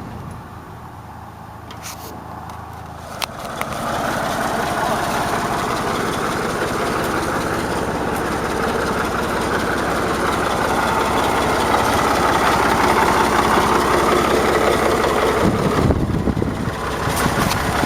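A motor starts up about four seconds in and runs steadily, dipping briefly near the end, after a couple of sharp clicks.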